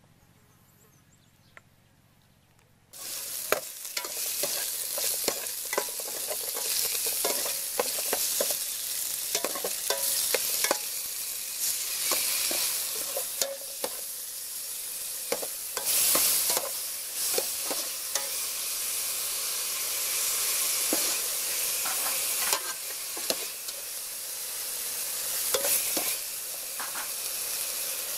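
Fish steaks with garlic, shallots and lemongrass sizzling in a hot aluminium pot while a metal ladle stirs them, clicking and scraping against the pot. The sizzling starts suddenly about three seconds in, after a near-silent start.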